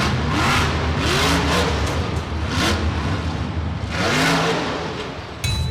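Monster truck engine revving hard over and over, its pitch sweeping up and falling back several times, cut off abruptly just before the end.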